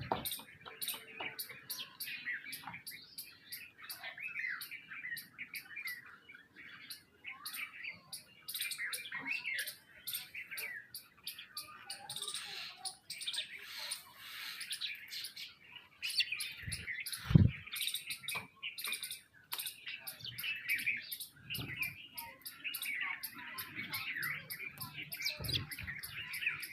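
A crowd of sparrows chirping busily, many short calls overlapping without a break. A dull low thump stands out about two-thirds of the way through.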